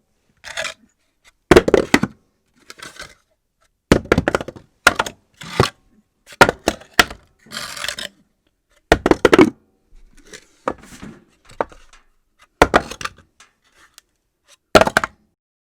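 Objects being dropped onto a floor at irregular intervals, each landing with a sharp knock, some followed by a short clatter. There are about a dozen drops, the hardest coming every two to three seconds.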